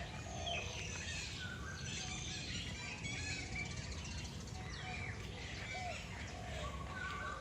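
Several birds calling at once: many short chirps and whistles, some gliding up or down in pitch, overlapping over a steady low rumble.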